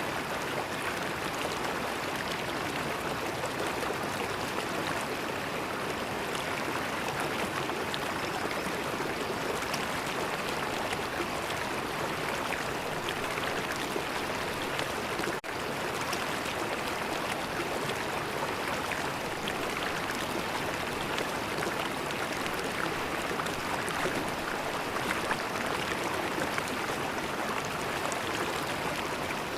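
River water flowing and gurgling in a steady, even rush. There is one momentary drop in level about halfway through.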